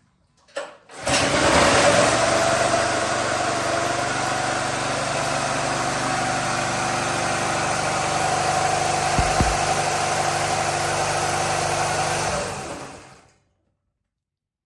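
Predator small gasoline engine on a homemade lawnmower running steadily at one speed. It starts suddenly about a second in and fades out near the end.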